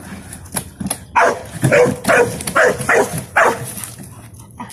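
Dog barking in a quick run of about six barks, roughly two a second, with a few sharp clicks before them.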